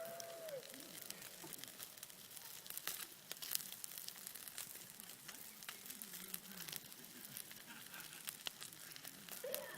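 Campfire crackling, with irregular small pops and snaps over a faint hiss.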